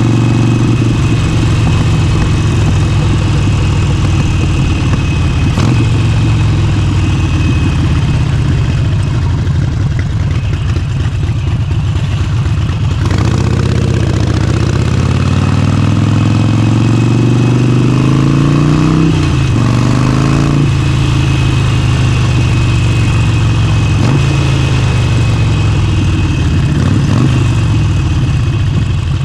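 Motorcycle engine running under way. It holds a steady pitch, then a little past the middle climbs as the bike accelerates, drops sharply at a gear change, climbs briefly again and settles back to a steady note.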